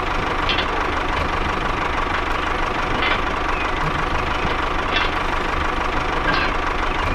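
A small engine running steadily at idle, with a few short high chirps over it.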